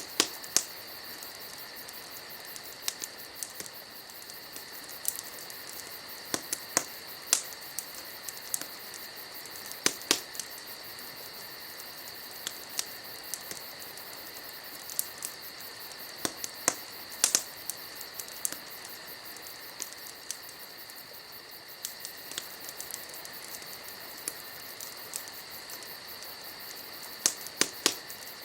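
Wood fire crackling, with irregular sharp pops over a steady hiss, and a steady high insect trilling underneath.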